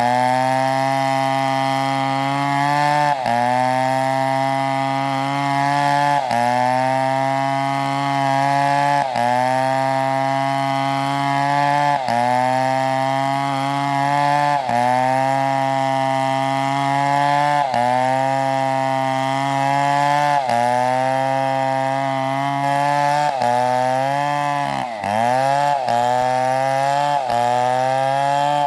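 STIHL chainsaw running at high revs while cutting through a log. The engine pitch sags and recovers roughly every three seconds as the chain loads up in the wood, with one deeper bog-down near the end.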